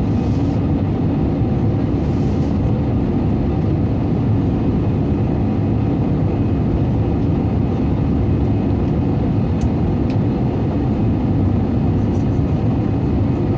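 Steady cabin noise of an Airbus A320-200 in flight: a constant low rumble of jet engines and airflow heard from inside the passenger cabin.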